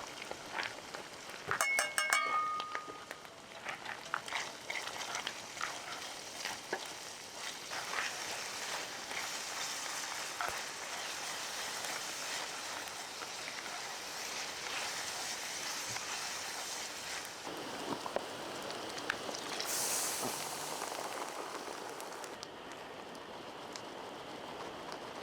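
Food sizzling in a cooking pan, a steady frying hiss, with a few ringing metal clinks of a utensil against the pan about two seconds in and a short, louder hiss near the end.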